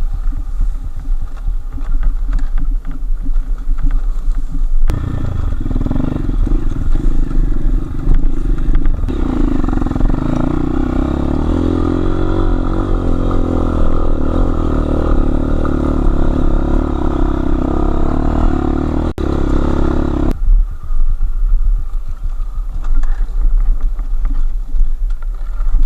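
Enduro motorcycle engine ticking over quietly, then about five seconds in it is opened up and runs hard under load for about fifteen seconds as the bike climbs the slope, before dropping back to a low idle.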